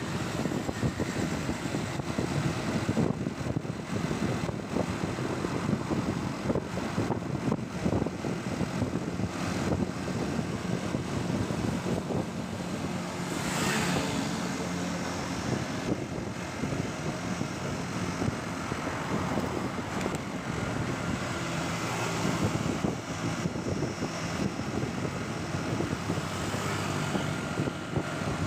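Motorcycle engine running steadily while riding through city traffic, with road and wind noise and a brief hissing swell about halfway through.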